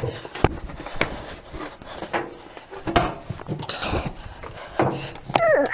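Scattered knocks and clatter from handling laundry and the washer, about one sharp knock a second, with a brief falling squeak near the end.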